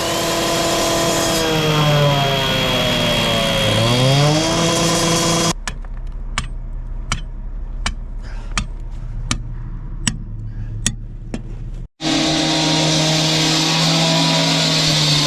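An engine running under load, its pitch dipping and then recovering, with a steady high whine over it. After an abrupt cut comes a run of sharp knocks, a bit more than one a second. After another cut the engine runs steadily again.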